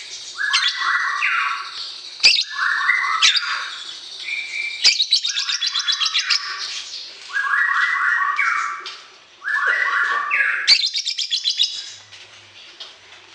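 Caged songbird singing in repeated bursts: fast, stepped chattering phrases with rapid high ticking notes, a new burst every two seconds or so, with a few sharp clicks between them; the song thins out near the end.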